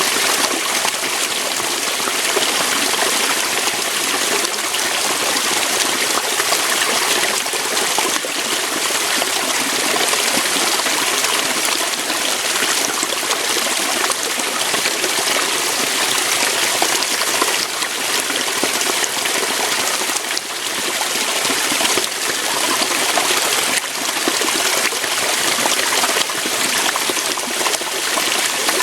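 Waterfall: water falling and splashing over rocks in a steady, unbroken rush.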